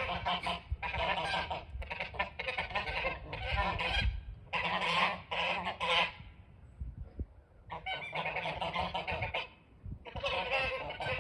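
A flock of snow geese honking, many calls overlapping in dense bursts, broken by short lulls a little past the middle and again near the end.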